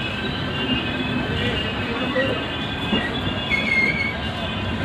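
Express train's sleeper coaches rolling past a platform: a steady rumble of steel wheels on the rails, with thin high wheel squeals coming and going, one of them near the end.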